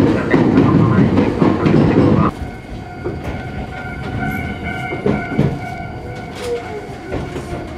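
Electric commuter train running on the track: a loud rumble for the first two seconds or so that cuts off suddenly, then quieter running with a few sharp clicks of wheels over rail joints and steady whining tones as it approaches a station.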